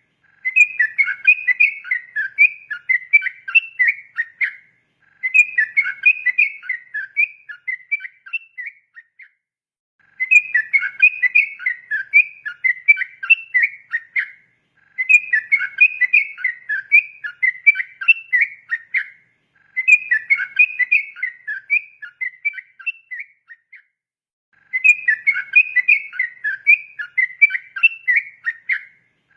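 Yellow-vented bulbul (trucukan) singing its fast, run-on 'ropel' song: rapid bubbling whistled notes jumping up and down in pitch, delivered in phrases of about four seconds with brief pauses between them, six phrases in all.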